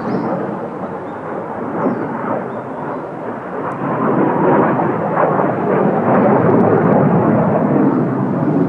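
Jet noise from Blue Impulse's Kawasaki T-4 jet trainers flying overhead: a steady rumble that swells about four seconds in and is loudest near the end.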